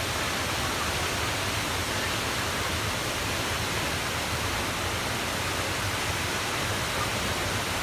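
Steady, unbroken rush of water, like a waterfall or fast stream, with no change in level.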